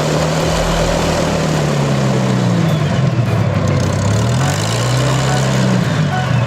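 Propeller aircraft engine running with a loud, steady drone over a wide hiss. Its pitch dips about two seconds in and climbs back a couple of seconds later.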